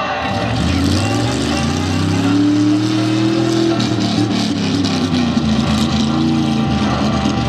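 Monster truck engine revving as it manoeuvres: the pitch climbs over about three seconds, drops back, then rises briefly again near the end.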